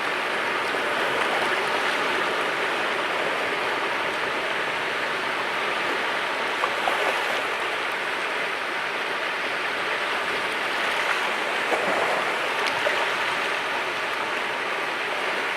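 Sea waves washing against the shore: a steady rushing hiss of moving water, with a few small splashes about halfway through.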